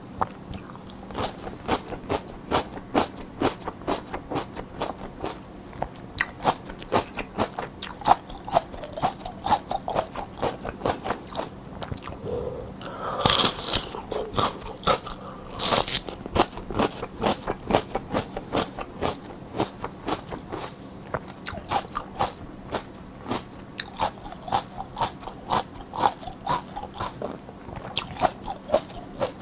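Crisp chewing and biting of raw mini sweet peppers close to the microphone: a steady run of juicy crunches, about two to three a second, with a few louder bites about halfway through.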